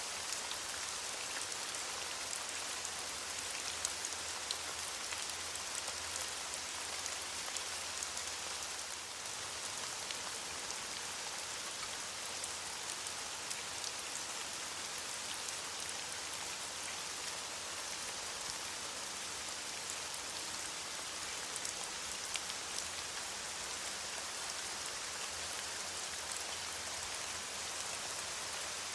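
Steady rain falling on leaves, an even hiss full of fine pattering drops.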